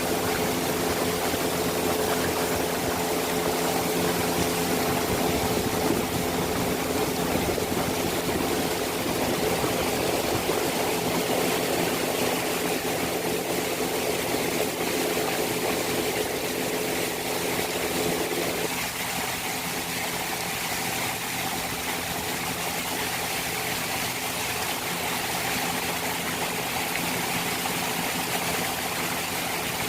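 Small boat's engine running steadily over water, its note easing about two-thirds of the way through as the throttle comes back.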